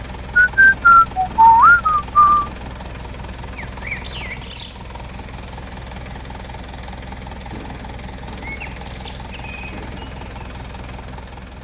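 A short run of loud whistled notes, one of them gliding upward, in the first couple of seconds, over the steady hum of a small engine running. Faint chirps come and go throughout.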